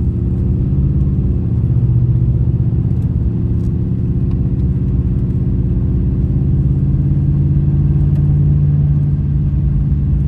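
GMC 2500HD pickup with a 6.0-litre gasoline V8 driving steadily, heard from the cab as a constant low engine and road drone.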